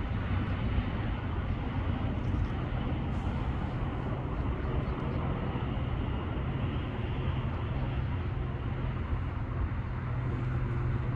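Steady outdoor background rumble and hiss with a constant low hum, with no distinct events.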